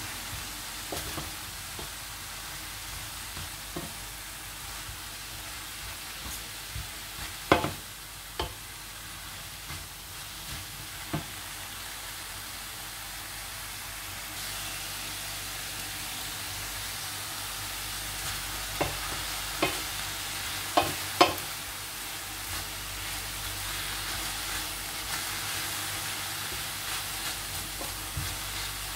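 Sliced vegetables (napa cabbage, red pepper, mushrooms) sizzling as they sauté in a stainless steel wok, stirred with a wooden spoon that now and then knocks sharply on the pan. The sizzle grows louder about halfway through.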